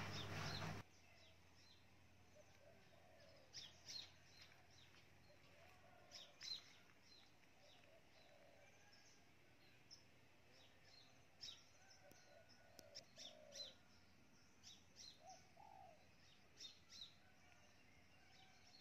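Faint birdsong over near silence: scattered short, high chirps with a few lower, cooing notes.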